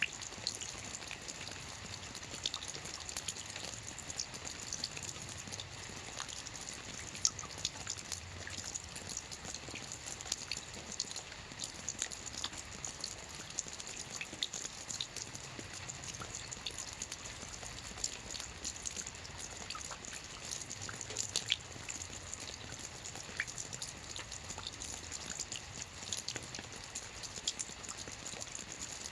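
Rain falling on a lake: a steady hiss of rain with many close drops pattering and splashing on the water.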